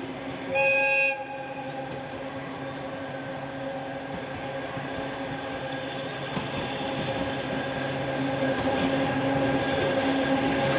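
Locomotive-hauled passenger train: one short blast of its warning horn about half a second in, then the train's steady running noise with a low hum, growing louder as it approaches.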